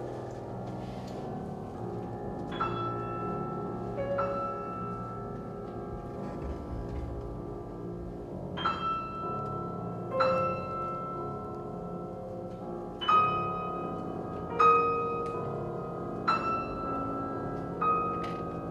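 A piano with a chamber string orchestra: the strings hold quiet sustained chords while the piano strikes single high notes, about seven of them spaced a second or two apart, each left to ring.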